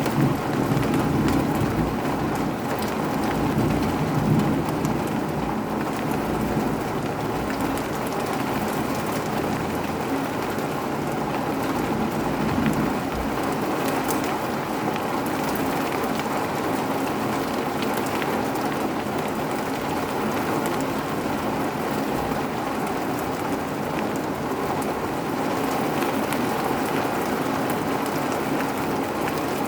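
Steady rain falling and pattering on surfaces, an even hiss throughout. A low rumble swells in the first few seconds.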